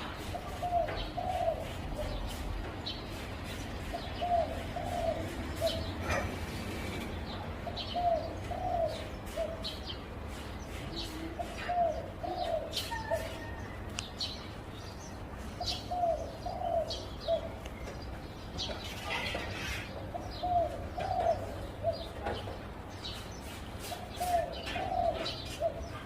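Zebra dove cooing: a short phrase of soft, rapid coo notes, repeated about every four seconds.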